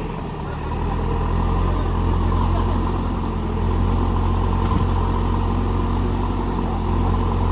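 Heavy diesel machinery engine running steadily under load, louder about a second in.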